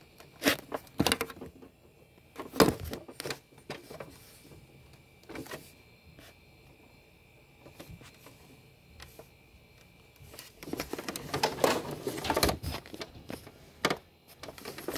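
Handling noise from a phone being taken off a tripod and moved: scattered sharp clicks and knocks, then a longer stretch of rustling and scraping about eleven to thirteen seconds in.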